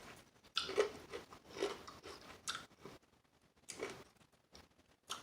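Close-miked chewing of crispy fried chicken wings: irregular crunches, several in the first three seconds and then sparser.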